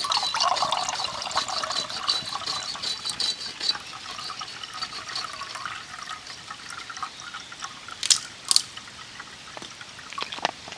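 Water being poured into a vessel, trickling for about four seconds with a pitch that rises as it fills. Two sharp clicks follow about eight seconds in.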